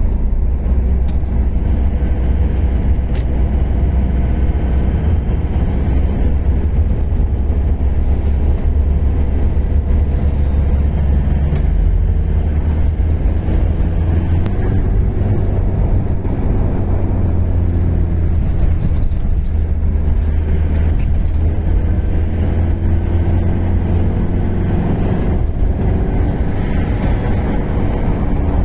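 Mitsubishi Fuso truck's diesel engine running under way, with a steady heavy low rumble of engine and road noise whose engine note drifts slightly up and down.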